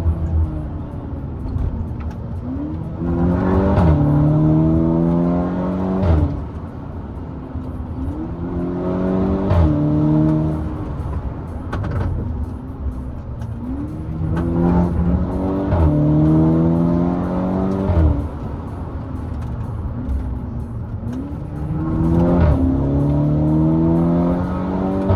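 The turbocharged four-cylinder of a VW Golf MK6 GTI Edition 35 with a decat downpipe accelerates hard through the gears in four pulls. In each pull the pitch climbs, a DSG upshift cuts in with a sharp crack (a 'DSG fart'), then it climbs again. Between pulls the engine eases off.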